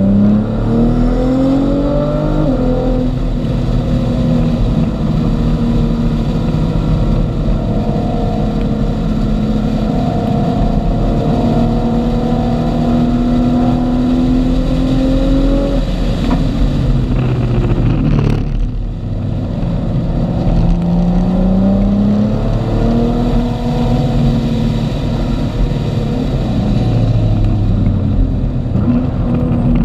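A car's engine heard from inside the cabin at track speed: the revs climb and drop back in an upshift about two seconds in, then hold a steady high drone. Past halfway the revs fall off and the level dips briefly, then they climb hard again in repeated rising pulls.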